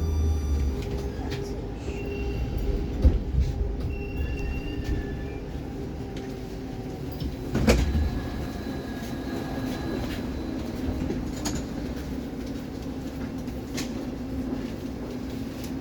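Inside a Baltiets metro car standing at a station: steady hum of the train's onboard equipment, with a low rumble fading in the first second and two sharp knocks, about 3 and 8 seconds in, the second the louder.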